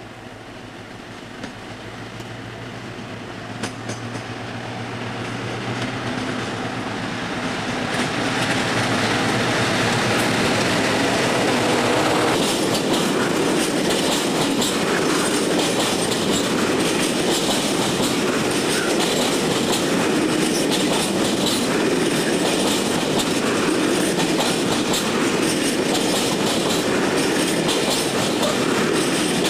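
Class 60 diesel locomotive approaching with a low, steady engine drone that grows louder over the first several seconds. It passes, and a long train of empty hopper wagons follows, its wheels rumbling and clattering over the rail joints at a steady, loud level.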